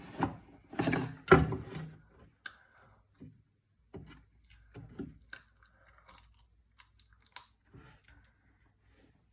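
A computer fan and other PC parts being handled and set in place: a cluster of knocks and rattles about a second in, then scattered light clicks and taps.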